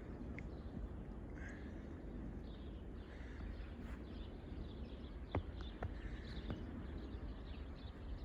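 Outdoor winter ambience: a steady low rumble of wind, with faint scattered bird chirps and a couple of sharp clicks a little past the middle.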